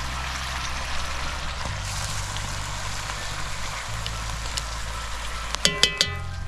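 Vegetables, bacon and rabbit sizzling in a hot cast iron pot over an open wood fire, stirred with metal tongs. Near the end the tongs clink sharply against the pot a few times.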